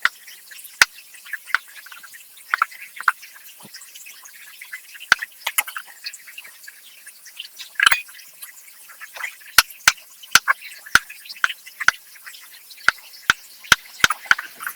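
Irregular sharp kitchen knocks, about one or two a second and unevenly spaced, with faint crackling in between.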